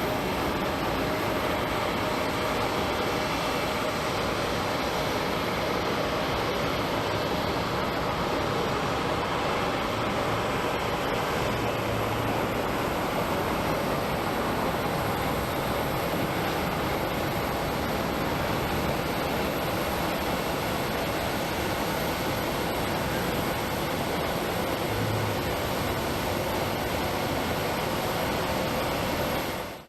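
Jet aircraft engines running steadily, an even rush with a faint whine through it.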